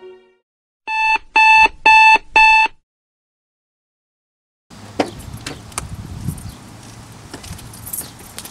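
Electronic alarm clock beeping: four loud, high, evenly spaced beeps, about two a second, the first a little softer. After a short silence, outdoor ambience with a few sharp clicks.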